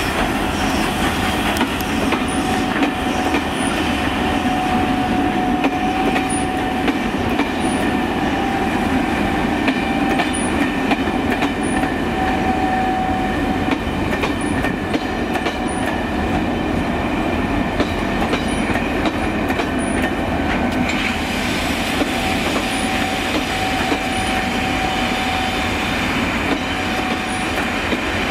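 Passenger coaches of a steam-hauled charter train rolling past, their steel wheels clicking over rail joints, with a thin steady wheel squeal.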